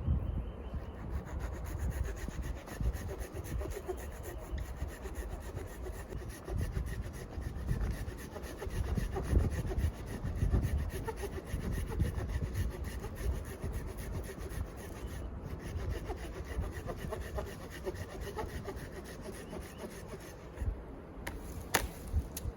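Hand saw cutting wood, a continuous rasping with a low rumble under it, and one sharp click near the end.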